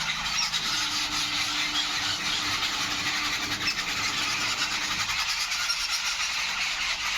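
A flock of small birds chirping continuously in a dense, busy chorus: agitated calls, the kind birds give on spotting a cat.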